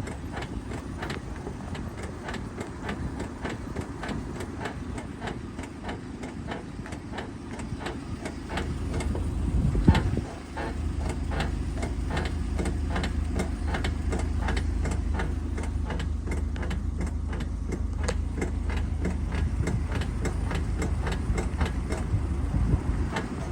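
Car making a steady, evenly spaced ticking several times a second over the low rumble of the running car. The owner says the noise never stops except when the brake pedal is pressed. About ten seconds in the low rumble grows heavier and then holds steady.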